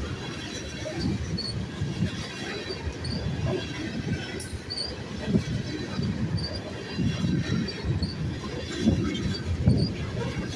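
Freight train of tank cars rolling past at close range: a steady rumble of steel wheels on rail with irregular clanks and knocks, a few heavier knocks in the second half.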